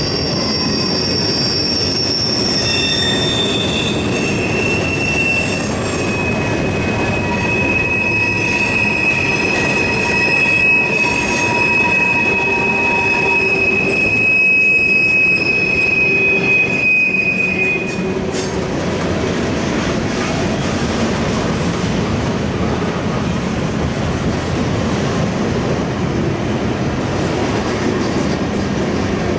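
Railroad cars rolling past with a steady rumble, their steel wheels squealing against the rail in several high, held tones that die away after about eighteen seconds, leaving only the rolling rumble.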